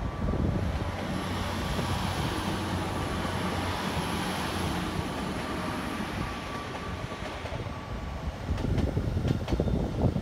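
TransPennine Express Class 802 train moving slowly along the platform: a steady rumble with a high whine that drops slightly about three-quarters of the way through, followed by a few sharp clicks near the end.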